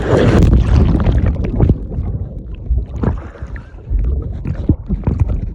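Water splashing and sloshing around a swimmer, with wind rumbling on the microphone. It is loudest for the first two seconds, then quieter, with a few short knocks and splashes.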